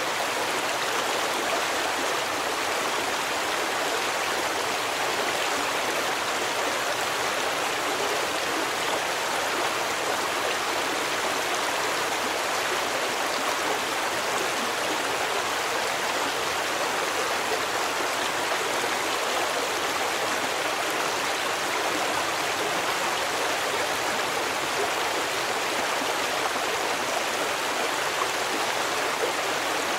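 A stream running: steady, even rushing of flowing water with no breaks or separate splashes.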